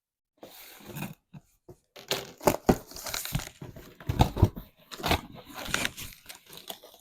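A mail package being torn open by hand: irregular tearing, crinkling and crunching of packaging, growing busier and louder after the first couple of seconds.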